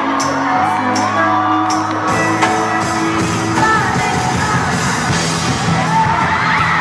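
Live pop music played on stage in a large hall, a singer's voice over sustained instrumental notes and a bass line, with some whoops from the audience.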